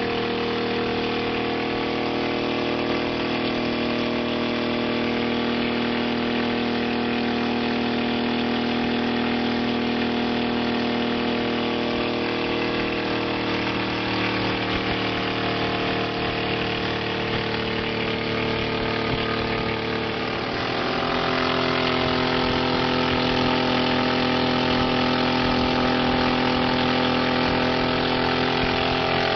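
Engine of a homemade helicopter running steadily. About twenty seconds in its pitch shifts and it gets a little louder.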